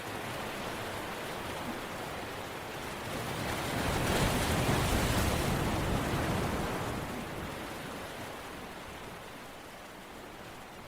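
Rushing noise of waves: one surge swells to its loudest about four to six seconds in, then slowly fades.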